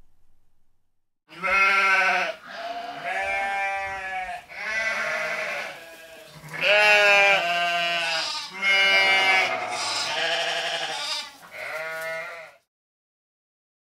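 Sheep bleating: a run of wavering bleats, one after another, starting about a second in and cutting off abruptly near the end.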